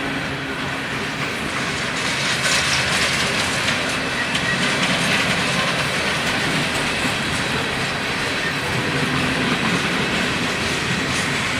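Freight train cars rolling past, a steady rumble and hiss of steel wheels on the rails with faint clicking of wheels over rail joints.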